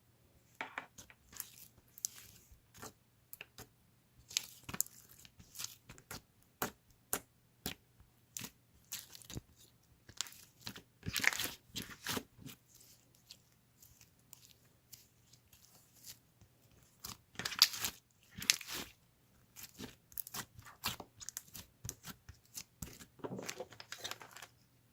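Close-up handling noises: irregular tearing and crinkling rustles mixed with sharp clicks, in louder clusters about eleven seconds in, around seventeen to nineteen seconds, and near the end.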